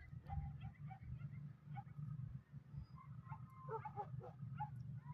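Small birds giving many short, scattered chirps, busiest a little before the end, over a steady low hum.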